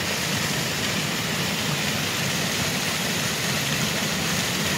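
Floodwater gushing out of a culvert pipe under pressure into a deep pool after heavy rain: a steady, unbroken rushing.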